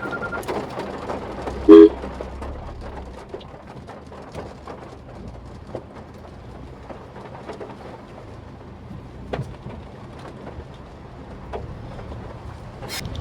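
Road and engine rumble inside a Maruti Suzuki Swift Dzire's cabin while driving, with scattered light ticks. A short, loud vehicle horn honk sounds about two seconds in.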